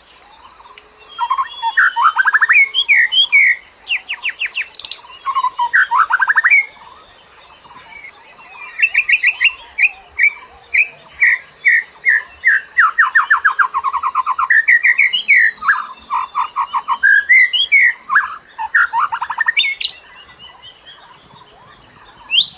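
A songbird singing lure song (kicau pemikat): bursts of quick chirping notes and rapid trills, some phrases rising and falling, broken by short pauses, with a harsh buzzy burst a few seconds in.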